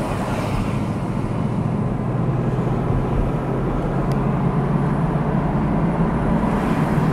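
Car running steadily: a low engine hum over road noise, with no sudden events.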